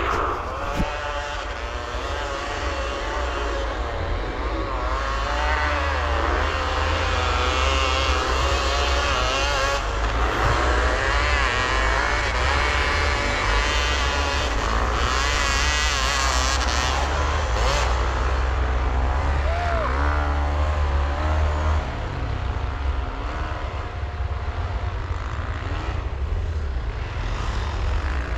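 Dirt bike engine revving, its pitch rising and falling again and again as it runs through the revs, over a heavy low rumble.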